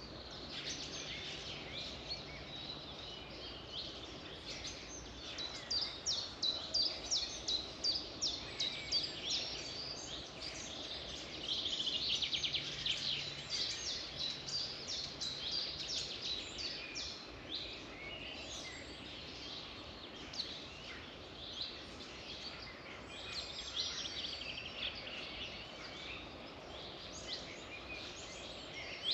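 Several songbirds singing at once in a dawn-chorus-like jumble of high chirps and trills, with runs of quick repeated notes that are busiest from about six to sixteen seconds in.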